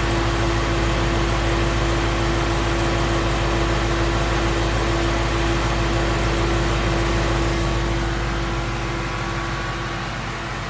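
Ford Coyote 5.0 L V8 in a 2016 Mustang running steadily at idle, smooth and even. The owner hears it as normal, without the typewriter-like tick these engines are known for. It gets slightly quieter near the end.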